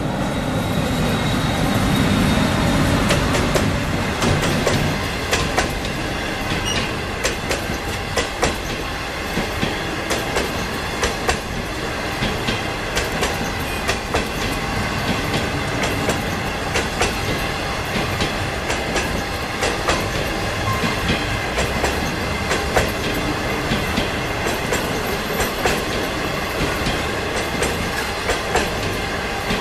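A passenger train of 25G coaches rolling past at speed, a steady rumble with the wheels clacking over the rails in a quick, repeating rhythm. The low rumble is heavier for the first few seconds.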